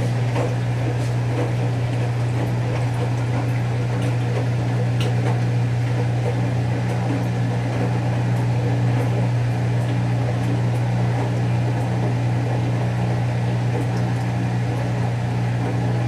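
Whirlpool Duet Sport front-load washer draining: a steady low hum from the drain pump and motor, with the drum starting to turn to spread the clothes evenly before the spin.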